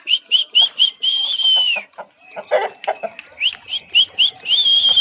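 A high, clear whistled phrase, given twice: about five quick rising notes, then one long held note that drops at the end. Between the two phrases come a few short, lower, sharp sounds.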